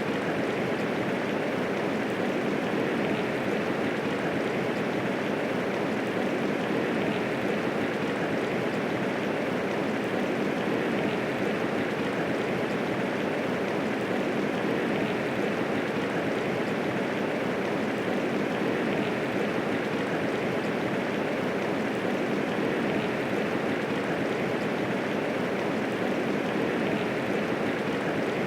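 Steady medium rainfall, an even hiss of many raindrops with no thunder.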